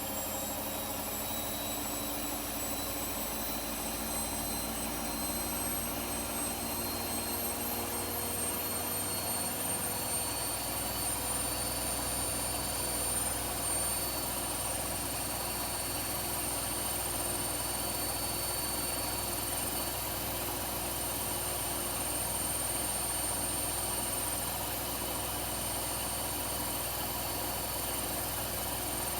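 Washing machine on its high-speed spin: the motor and drum whine climbs in pitch for about the first ten seconds, then holds steady at top speed over a constant rushing hum.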